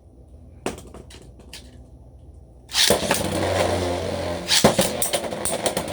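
A few faint plastic clicks, then about three seconds in a sudden loud whirring clatter of Beyblade spinning tops in a plastic stadium, with sharp knocks as they collide.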